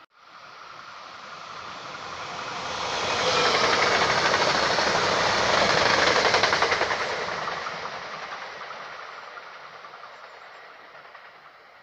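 Eurobahn regional passenger train passing at speed close by: the rush of wheels on rail and a fast clatter build to a peak about four to seven seconds in, then fade as the train moves away.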